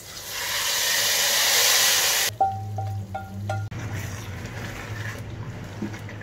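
Hot oil sizzling loudly as sliced onions and ginger fry in a pan, cut off abruptly about two seconds in. It is followed by four short, evenly spaced beeps at one pitch over a low hum.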